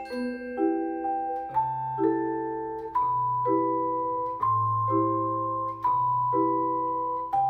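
Percussion ensemble playing a waltz: ringing pitched chords struck in a steady pulse about every half second, over a melody line, with low bass notes joining about a second and a half in.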